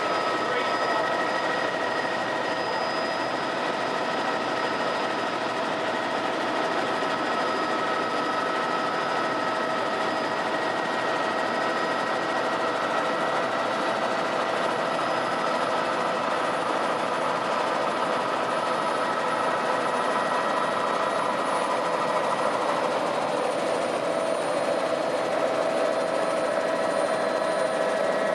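Helicopter running in flight: a steady dense engine and rotor noise with a high held turbine whine, whose tones shift slightly about four-fifths of the way through.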